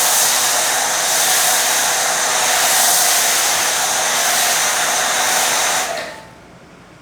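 MTM PF22 foam cannon on a Kranzle HD7 pressure washer spraying snow foam shampoo onto a car panel: a loud, steady hiss that cuts off sharply about six seconds in.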